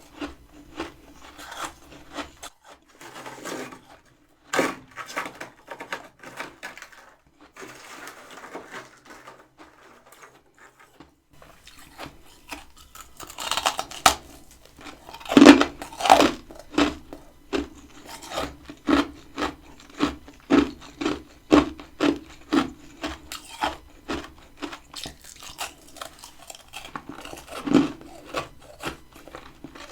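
Freezer frost being scraped and crunched, then from about halfway a steady run of crisp chewing crunches, about one and a half a second, as the frost is eaten.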